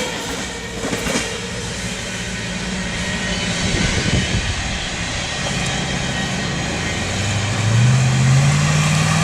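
Freight train cars rolling past on the rails, a steady rumble with a few clanks. Near the end a low drone comes in and rises in pitch.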